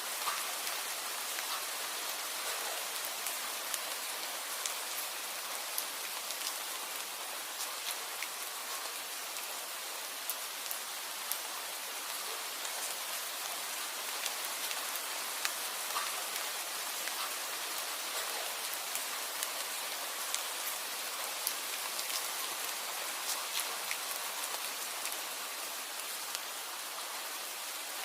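Steady rain falling, with many scattered drops ticking sharply against the even hiss.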